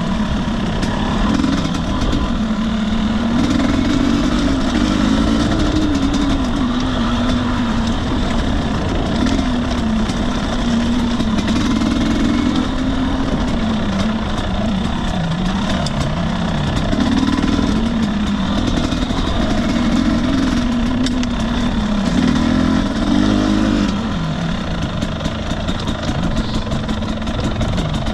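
Husqvarna TE250i two-stroke single-cylinder dirt bike engine being ridden on a trail, its revs rising and falling constantly with throttle, with scattered clicks. Near the end the revs drop and it runs lower and a little quieter.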